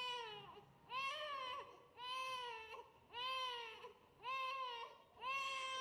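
Newborn baby crying in a run of short wails, about one a second, each rising and then falling in pitch.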